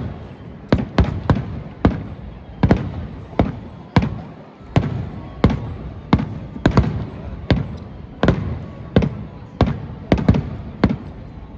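Fireworks bursting overhead: a steady run of sharp bangs, each with a low boom after it, about one or two a second.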